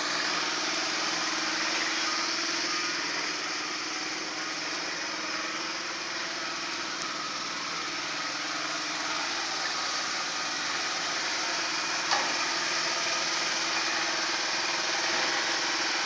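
A small machine running steadily with a strong hiss and a low hum, and one sharp click about twelve seconds in.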